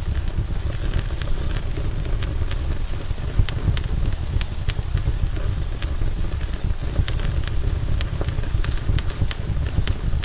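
Campfire burning: a steady low rumble of flames with sharp, irregular crackles and pops from the burning wood.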